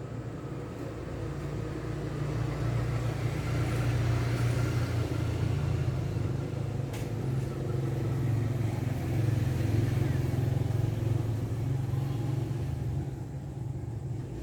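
A motor vehicle's engine running, a steady low hum that swells over the first few seconds, holds, then fades near the end. A single sharp click comes about halfway through.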